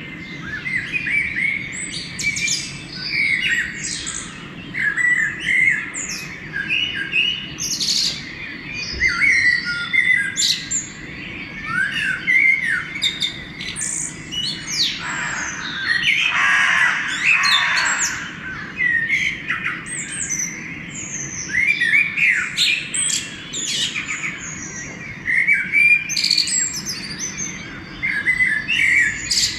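Dawn chorus of several songbirds: a steady stream of short chirps and repeated whistled phrases from different birds, with a longer, noisy call lasting a couple of seconds about halfway through.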